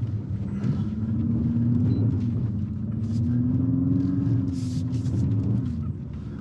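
Infiniti QX55's 2.0-litre turbo four-cylinder engine pulling the car up a steep dirt climb, heard from inside the cabin: a low rumble with an engine note that rises slowly, eases back and drops away near the end.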